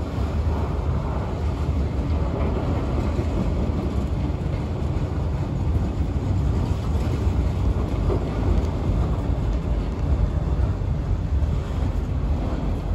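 Freight cars of a long mixed freight train rolling past over a road crossing: a steady, low rumble of steel wheels on the rails.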